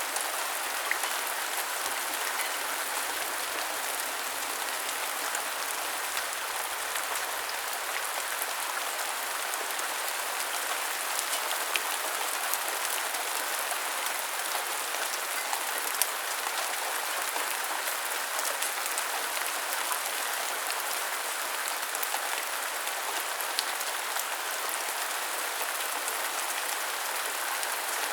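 Steady rain falling, a constant even hiss with scattered single drops ticking sharply here and there.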